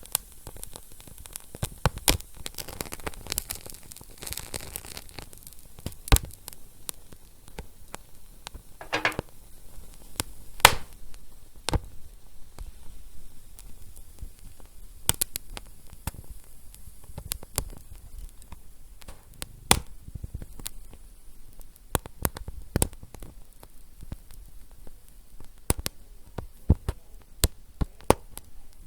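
Wood fire crackling: irregular sharp pops and snaps over a low hiss, with a brief louder hiss about nine seconds in.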